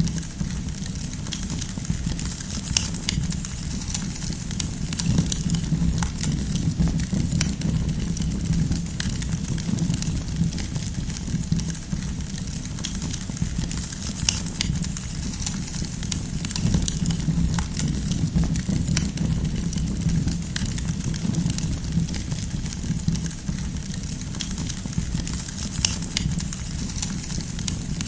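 Campfire burning, firewood crackling and popping irregularly over a steady low rumble.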